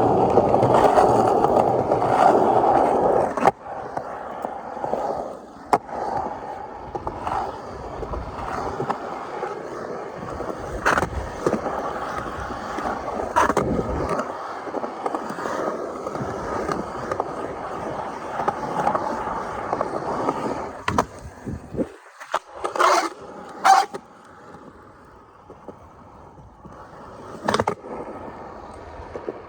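Skateboard wheels rolling over pavement, broken every few seconds by sharp clacks of the board as tricks are popped and landed, two of them in quick succession about three quarters of the way through. The rolling is loudest in the first few seconds.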